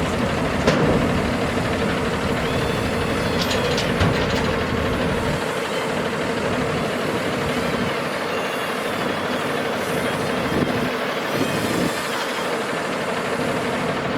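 Diesel engine of a Freightliner M2 dump truck running steadily, with a few light clicks and knocks over it.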